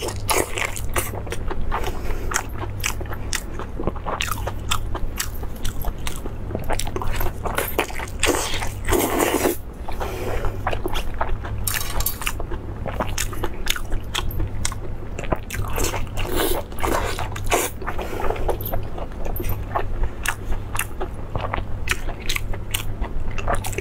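Close-miked eating: biting and chewing lamb sausage in casing and lettuce leaves, with many irregular wet mouth clicks and crunches.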